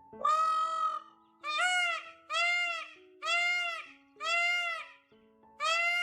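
A peacock calling loudly six times in quick succession, each call a short honking cry that rises and falls in pitch, about one a second. Soft piano music plays underneath.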